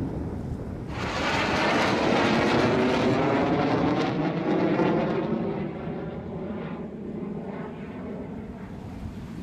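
A fighter jet's engine noise swells in about a second in and is loudest for a few seconds, its pitch wavering and sliding downward as it passes. It then fades away.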